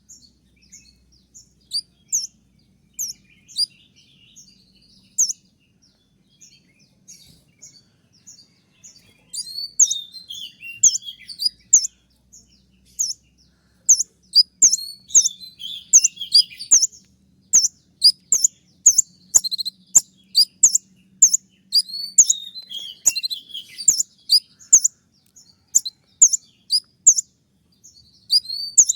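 Kolibri ninja sunbird calling in short, sharp, high notes that sweep downward, scattered at first, then from about nine seconds in a dense fast run mixed with lower twittering.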